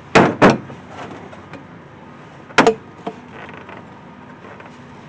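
Sharp knocks and clunks of parts being handled and fitted in the truck's engine bay during an air intake install: two in quick succession at the start, a third about two and a half seconds in.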